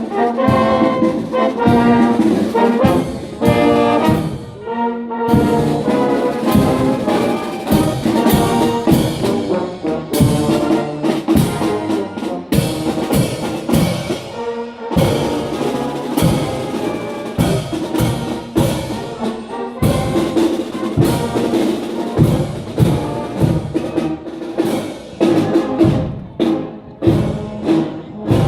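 Brass band playing, trumpets and trombones carrying the tune over a steady drum beat, as a marching band does in a parade.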